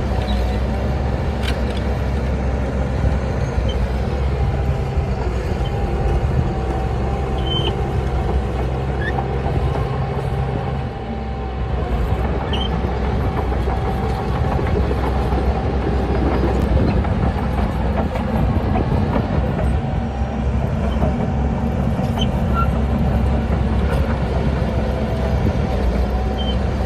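Heavy diesel earthmoving machinery running steadily under load, a deep engine drone that eases briefly about eleven seconds in and then picks up again.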